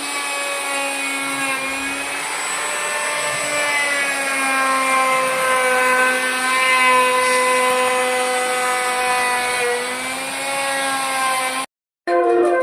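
Electric woodworking machine motor running steadily with a strong hum, its pitch dipping slightly now and then as if under load; the sound cuts off abruptly near the end.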